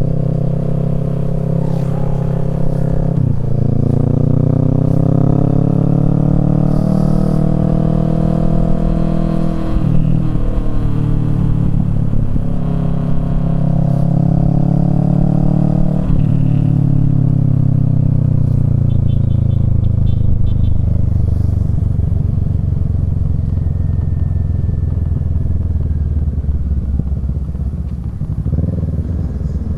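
Kawasaki Z650's parallel-twin engine through a Yoshimura Alpha exhaust, revving up. The pitch breaks and drops about 3, 10 and 16 seconds in, like gear changes. After that, the engine speed falls off steadily and runs lower near the end.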